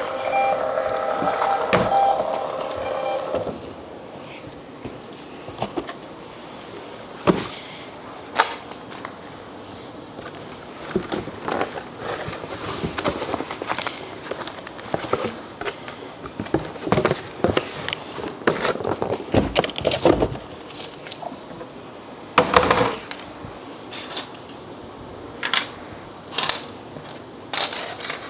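Scattered clicks, knocks and rustling of small items and packing materials being handled, after a steady pitched hum that stops about three and a half seconds in.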